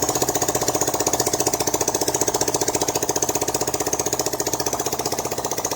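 Freshly rebuilt Hero Super Splendor BS6 single-cylinder four-stroke engine running steadily with a rapid, even beat; the oil is circulating and the engine runs well.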